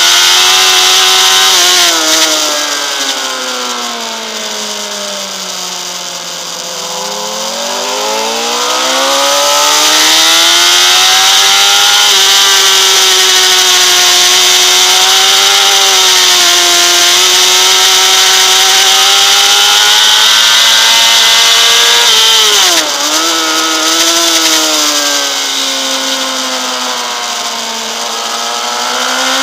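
Honda CBR600RR's inline-four engine at high revs on a race track, the pitch sinking as the rider slows for a bend and climbing again under hard acceleration, held high through a long stretch. About three quarters in it drops suddenly and picks straight back up, then sinks and rises once more, all over a steady rush of wind.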